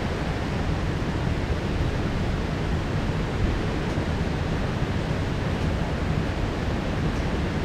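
Heavy rain pouring down steadily, a dense even hiss with no thunder in it.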